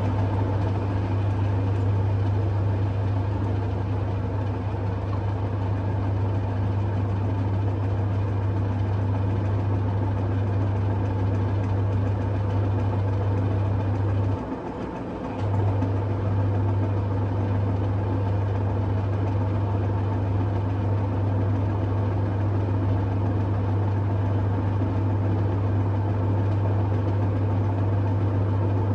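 LG F1222TD washing machine drain pump running with a steady low hum, stopping for about a second midway and then starting again. The machine is working through thick suds: a sud lock, not a blocked pump.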